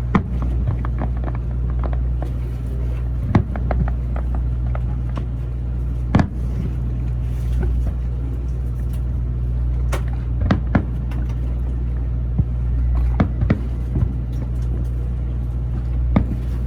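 Distant fireworks popping every few seconds, irregularly, over a steady low hum.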